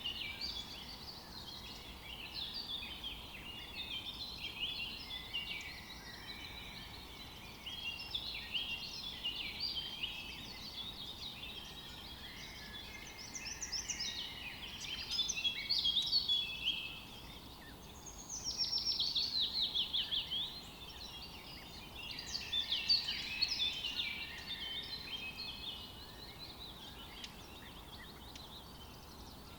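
Songbirds singing in a chorus, many short chirping and warbling phrases overlapping, with a fast run of repeated notes about two-thirds of the way through, over a faint steady outdoor hiss.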